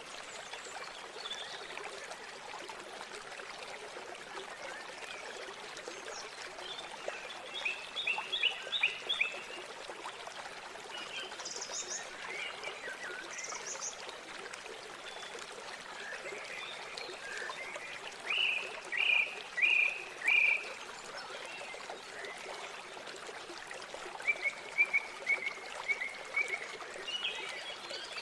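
Steady rush of flowing river water with birds calling over it: a quick run of chirps about eight seconds in, a few louder calls around nineteen to twenty seconds, and a rapid series of short notes near the end.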